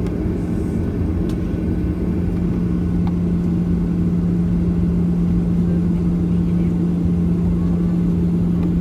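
Steady cabin noise inside a Boeing 737-800 on the ground with its CFM56-7B engines at idle: a constant low hum over a rumbling drone.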